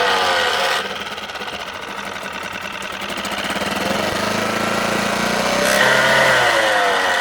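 Suzuki DF6 four-stroke outboard motor running with the strange noise it is being checked for. Its revs drop sharply about a second in, climb again over the next few seconds, and stay up near the end.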